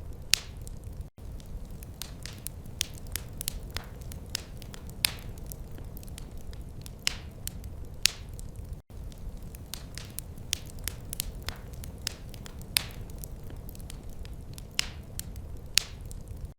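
Wood fire crackling in a fireplace: irregular sharp pops and snaps over a steady low rumble. The sound drops out for an instant twice, about a second in and near the middle.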